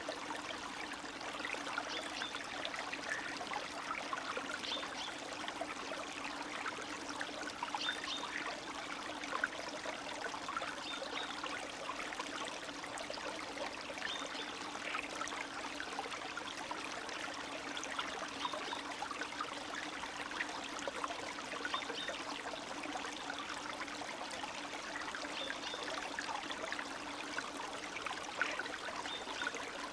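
Spring stream of snowmelt water trickling and babbling over stones, a steady rush dotted with small gurgles and splashes.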